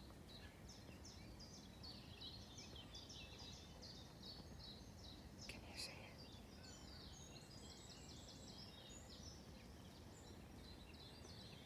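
Birds singing: a busy stream of short, high chirping notes over a faint low background rumble.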